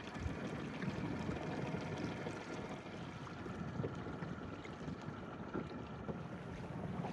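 Wind buffeting the microphone over water splashing around a small boat, with a faint steady hum underneath.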